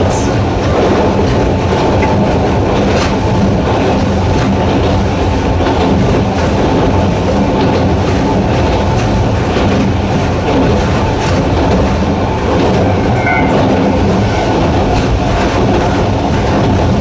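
Narrow-gauge Hokusei Line electric train running at steady speed, its nose-suspended traction motors humming with a steady low tone while the wheels clack irregularly over the rail joints.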